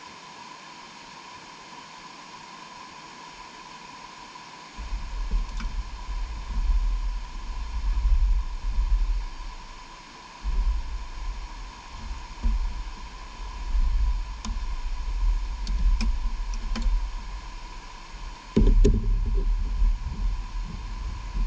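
Wind buffeting the microphone: uneven low rumbling gusts over a steady hiss, starting about five seconds in and swelling sharply again near the end, with a few faint clicks.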